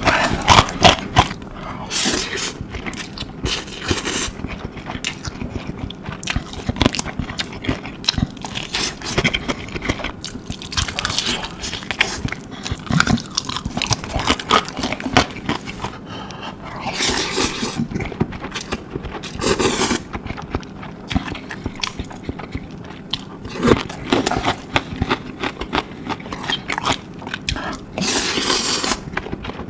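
Close-miked mukbang eating of spicy instant noodles: slurping and chewing, with utensils clicking and scraping against the bowl and a few louder slurps along the way.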